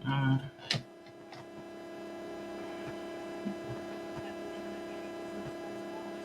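A steady drone of several pitches held together, swelling in over the first couple of seconds and then holding level. A single click comes just after it begins.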